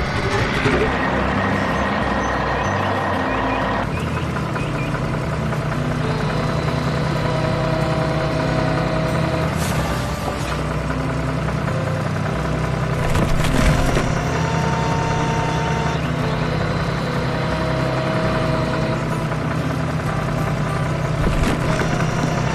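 Heavy truck engine running steadily, with a few short higher tones and a couple of knocks partway through.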